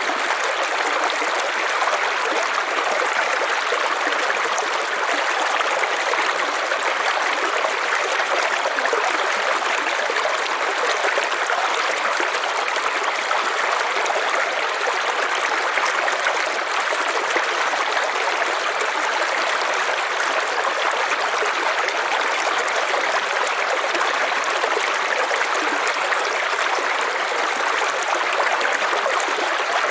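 River water flowing steadily over rocks, an even rushing and trickling with no breaks.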